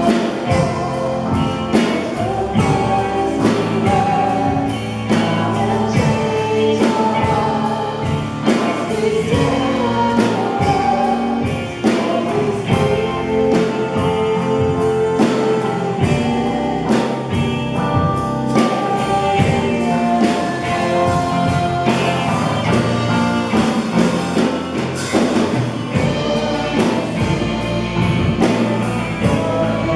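Live contemporary worship song: a band with a steady drum beat, with singers' voices over it.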